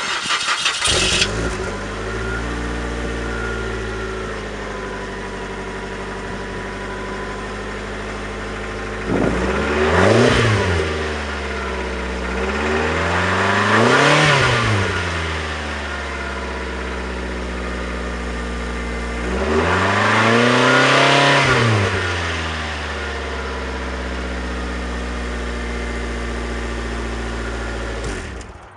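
2003 Mazda Protege ES's 2.0-litre four-cylinder engine, through a Mazdaspeed exhaust, starting up and settling to a steady idle. It is then revved three times, the last rev held longest.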